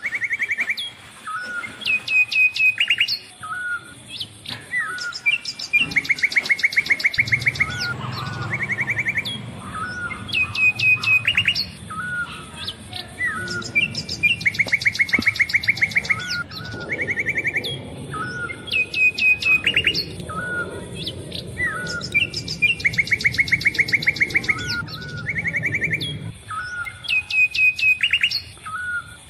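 Songbirds chirping, with fast buzzy trills and short rising calls that come in bouts every few seconds. A low rumble runs underneath from about seven seconds in until a few seconds before the end.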